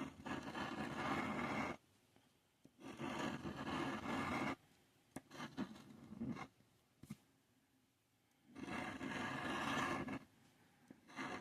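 Scratch-off lottery ticket being scratched, the coating scraped off in bursts of rapid strokes about two seconds long, with short pauses between.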